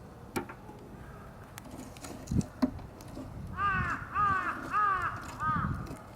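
A campfire crackling with a few sharp pops, then a crow cawing four times in quick succession about three and a half seconds in.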